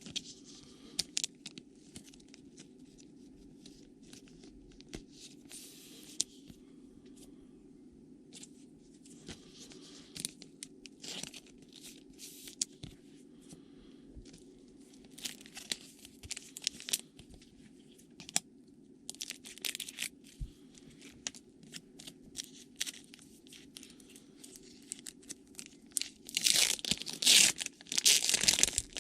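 Trading cards and pack wrappers being handled, with scattered soft clicks and crinkles, then a card pack's wrapper torn open and crinkled loudly near the end. A faint low steady hum runs underneath.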